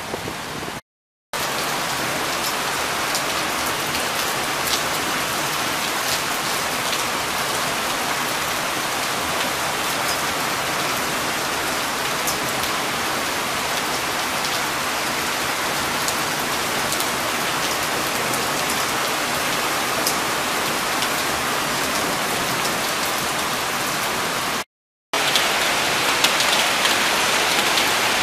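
Heavy rain falling, a dense steady hiss with many sharp close drop hits. It cuts out to silence twice, briefly, about a second in and near the end.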